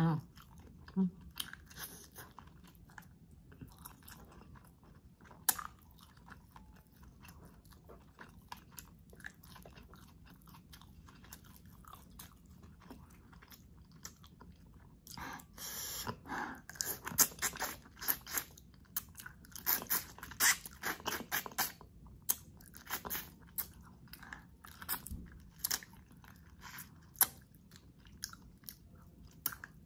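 Close-miked eating sounds: chewing and biting, scattered at first, then a dense run of crunchy, crackly bites about halfway through, as whole cooked shrimp in spicy garlic butter sauce and adobo squid are eaten.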